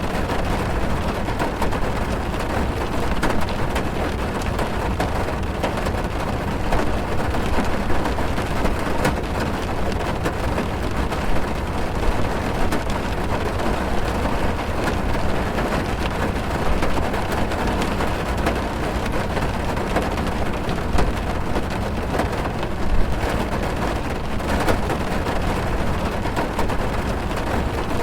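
Heavy rain on a car, heard from inside the cabin: a steady, dense patter with a strong low rumble and scattered louder drops.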